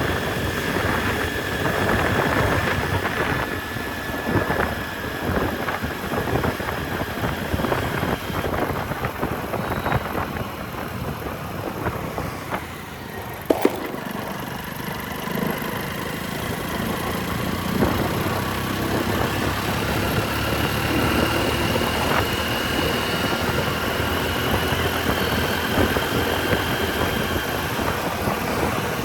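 Motorcycle riding through city traffic, heard from a helmet-mounted camera: the engine running under a steady wash of road and traffic noise, which eases briefly before two sharp clicks about halfway through.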